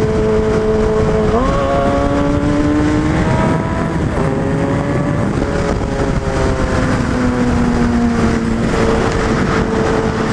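Suzuki Hayabusa's inline-four engine running under way, its pitch jumping up sharply about a second and a half in as it revs, then easing down in steps and settling steady near the end, over a constant rushing noise.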